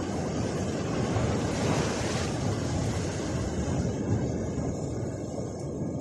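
Ocean surf washing on a beach, with wind rumbling on the microphone; the wash swells about two seconds in.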